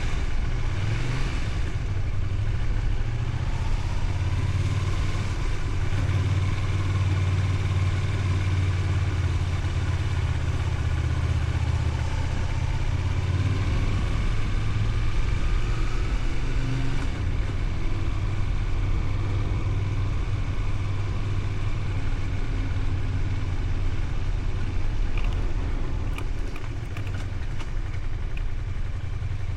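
Honda VTR250's 250 cc V-twin engine running while riding, its pitch rising as it accelerates twice, and easing off briefly near the end.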